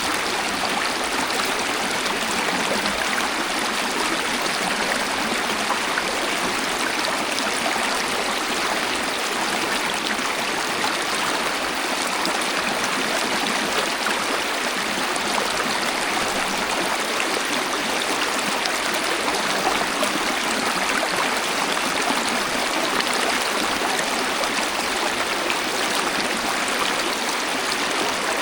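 Waterfall: water rushing and splashing in a steady, unbroken hiss, with little deep rumble.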